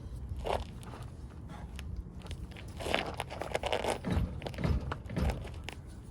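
Light clicks, knocks and scrapes of hand work on a pickup's front axle, with a cluster of louder knocks from about three to five seconds in.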